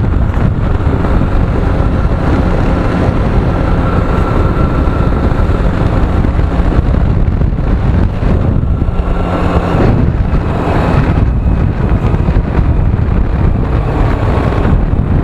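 Loud, steady engine drone with wind noise on the microphone.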